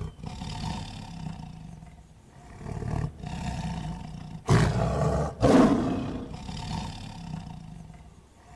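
Tiger roaring: low rumbling growls build to two loud roars about four and a half and five and a half seconds in, then taper off.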